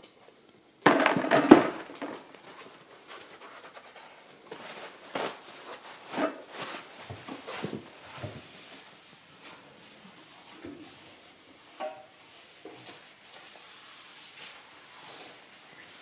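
Cloth wiping the glass door of a fireplace from the outside, a run of irregular rubbing strokes. A louder rustling burst comes about a second in.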